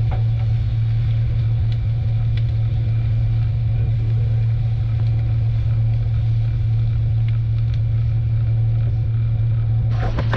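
A steady low drone that holds one even pitch and level throughout, with faint scattered ticks above it.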